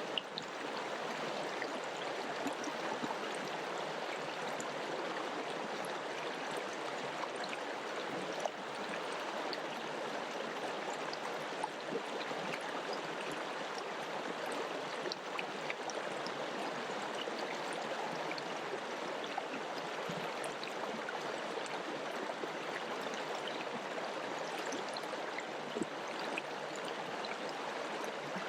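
Mountain river flowing over rocks: a steady rush of water with small splashes and gurgles scattered through it.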